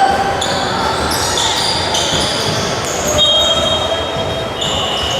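Rubber-soled sneakers squeaking repeatedly on an indoor court floor during a game, in short high squeaks and a longer squeal near the end, over a steady crowd hubbub in a large hall.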